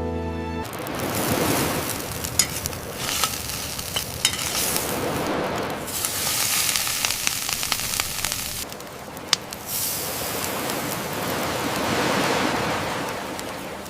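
Fish sizzling on a barbecue grill, a steady hiss with scattered sharp crackles from the fire.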